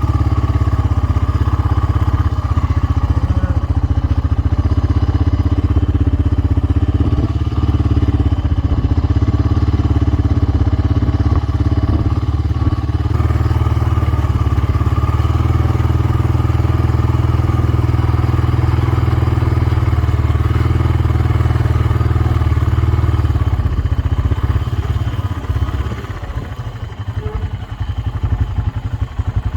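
Four-wheeler (ATV) engine running steadily under way with a heavy low rumble; it eases off and becomes uneven near the end.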